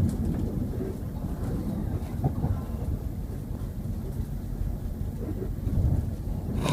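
Steady low rumble inside the passenger saloon of a Class 170 Turbostar diesel multiple unit under way, from its underfloor diesel engine and wheels on the track.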